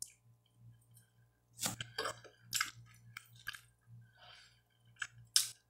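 Chewing and gnawing as roast chicken is eaten off the bone by hand. It is quiet for the first second and a half, then comes a run of sharp mouth clicks and crunches.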